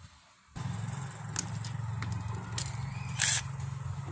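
A cordless screwdriver and hand work on a washing machine's screws: a few clicks and two short whirs about two-thirds of the way in, over a steady low hum.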